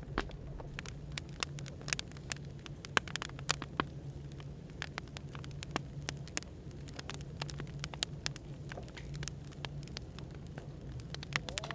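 Wood fire crackling with irregular sharp pops, over a steady low hum of café background noise.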